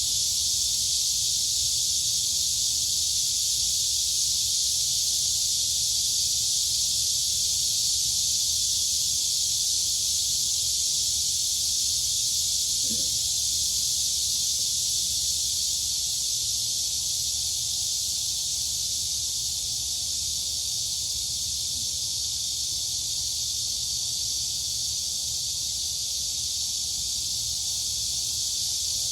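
Dense, unbroken chorus of crickets and cicadas: a steady high-pitched shrill buzz that neither rises nor falls, over a faint low rumble.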